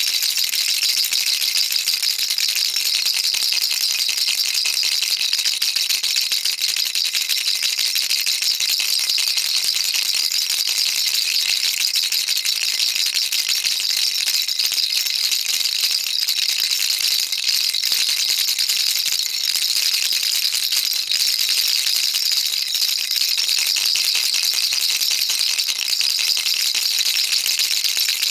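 Baby rattle shaken continuously, a dense, unbroken stream of fine, high-pitched clicks.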